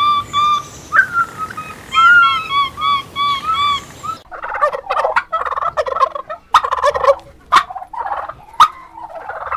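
Turkeys calling: first a run of evenly spaced high calls, then, after an abrupt change about four seconds in, a rougher, rapid run of gobbling.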